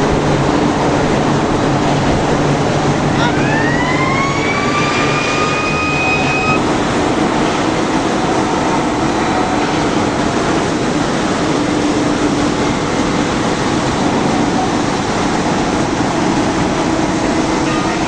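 Loud, steady factory machinery noise with a low hum. About three seconds in, a motor whine rises in pitch, holds steady, and stops at about six and a half seconds.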